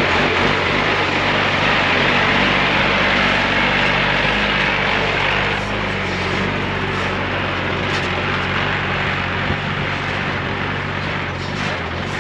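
Unimog truck driving on a rough, corrugated dirt road: a steady engine drone under a loud din of tyre and road noise, easing a little about halfway through, with a few light knocks.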